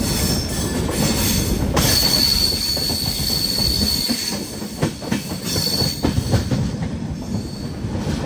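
Passenger train coaches rolling slowly into a station, heard from the coach door: a steady low rumble with a few clanks over rail joints. A thin high metallic squeal from the running gear starts about two seconds in and comes and goes.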